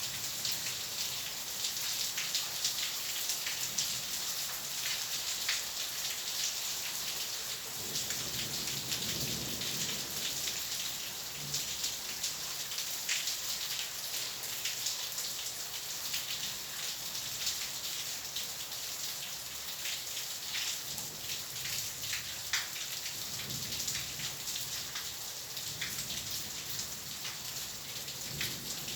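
Steady rain with individual drops ticking close by. Low thunder rumbles twice, about eight seconds in and again about twenty-three seconds in.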